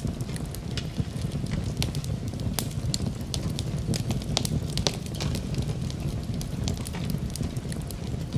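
Wood fire burning in a fireplace: a steady low rumble of flame with many sharp, irregular crackles and pops of burning wood.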